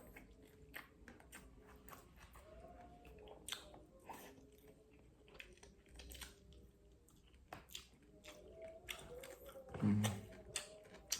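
Close-up chewing and mouth sounds of someone eating fish: scattered wet smacks, small crunches and clicks. A short hummed 'hmm' comes near the end.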